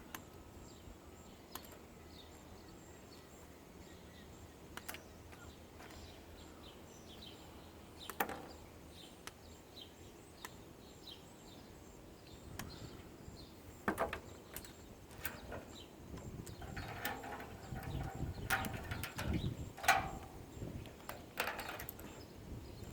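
Scattered clicks, snips and knocks of hand tools and plastic and metal parts while an air purifier is pulled apart for scrap, growing into a busier stretch of clatter a few seconds before the end. Faint bird chirps in the background.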